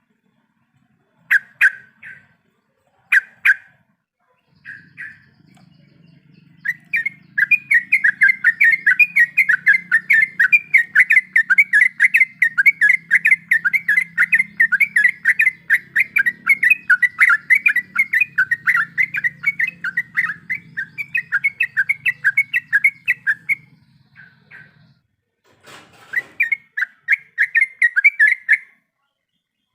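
Trucukan (yellow-vented bulbul) singing. A few short single calls are followed by a long, fast, unbroken run of repeated notes lasting over fifteen seconds, then a pause and a shorter run near the end.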